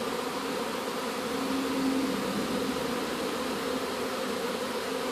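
Dense buzzing of a mass of honey bees flying and clustering at the front of a beehive after a swarm-like exodus, a steady humming drone.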